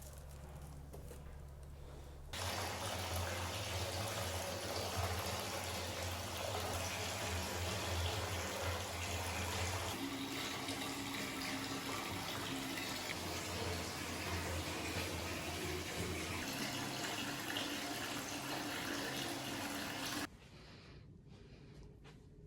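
Steady noise of rushing water, starting abruptly about two seconds in and cutting off suddenly near the end.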